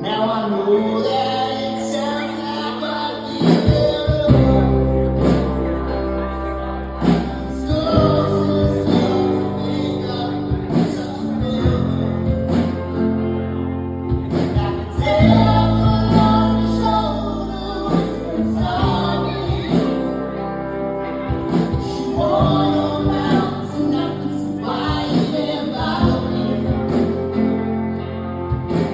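Shoegaze/slowcore band playing a song live, with singing over sustained guitar, bass and drums.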